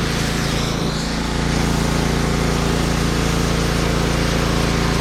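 Pressure washer running steadily: a small engine's even hum under the hiss of the water spray.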